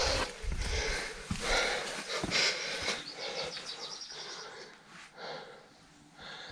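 A person breathing hard in noisy puffs, with rumble and rustle on the microphone. About three seconds in comes a brief rapid run of high ticks, and the sound fades near the end.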